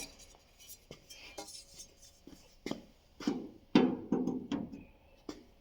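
Scattered light knocks and short metallic clanks of hand tools and metal being picked up and set down while a straight edge is fetched, with the busiest clatter a little past the middle.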